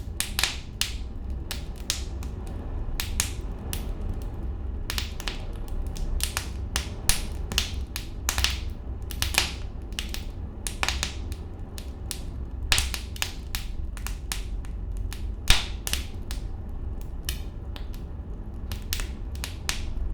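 Fire crackling: irregular sharp pops and snaps, often several a second, over a steady low rumble.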